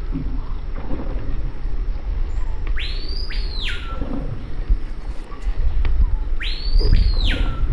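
A bird calling twice, each call a loud whistle that sweeps up steeply, holds high for a moment and drops back down, over a steady low rumble of wind and boat noise.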